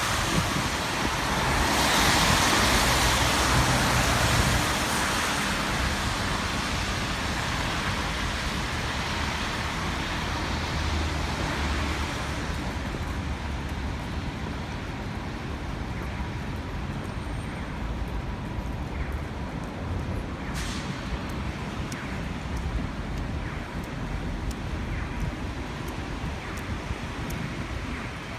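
City street traffic: a vehicle passes with a rushing hiss in the first few seconds, fading into a steadier, quieter low rumble of traffic.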